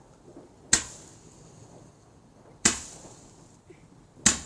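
Fireworks exploding: three sharp bangs, each dying away quickly, about a second and a half to two seconds apart.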